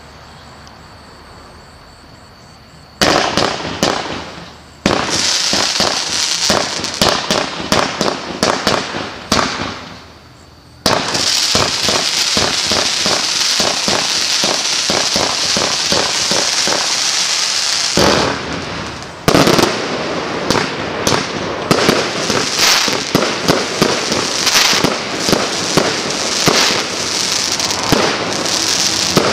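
A 223-shot fireworks cake with 20, 25 and 30 mm tubes firing. After a faint steady hiss, a rapid string of launches and crackling breaks begins about three seconds in. It briefly dies down around ten seconds in and again around eighteen seconds in, then carries on densely.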